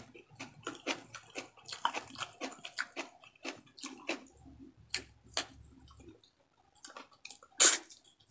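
Close-miked chewing of frog meat: wet mouth clicks and smacks, several a second for about six seconds, then sparser. Near the end comes a short, loud suck as fingers are licked clean.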